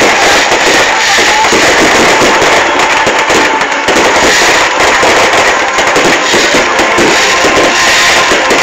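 Loud fireworks display, with bangs and crackling packed close together without a break, and music playing alongside.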